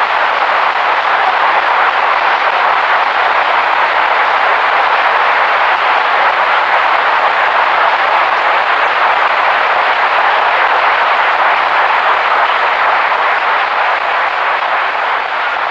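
Audience applauding steadily, a dense even clapping that eases slightly near the end.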